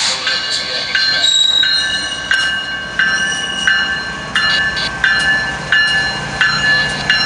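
BNSF freight train, a GE ES44-series locomotive leading autorack cars, passing close at speed. The wheels clack over the rail joints in a steady rhythm about every two-thirds of a second, each clack followed by a high ringing tone from the wheels.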